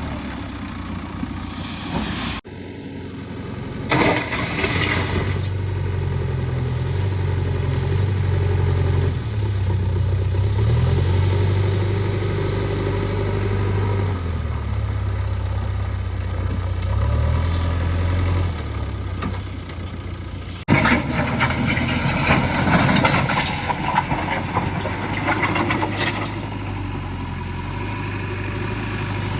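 Diesel engine of a JCB 3DX backhoe loader running under work, its engine note rising and falling repeatedly. Short bursts of louder clattering noise come near the start and again through the last third.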